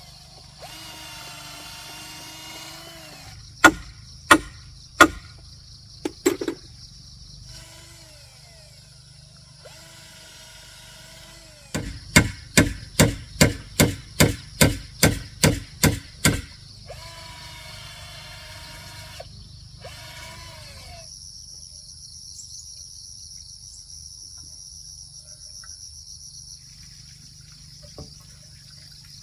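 A power drill runs in several short bursts, winding down in pitch each time it stops. Between the bursts a hammer strikes wood, a few separate blows and then a quick run of about eleven. Cicadas drone steadily throughout and are heard alone over the last third.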